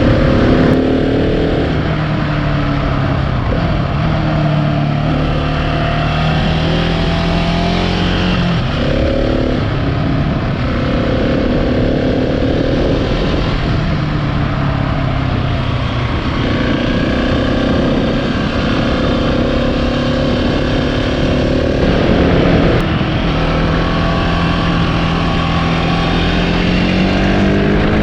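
Husqvarna 701 Supermoto's single-cylinder engine running under way, its pitch climbing slowly and dropping at gear changes several times, over steady wind noise.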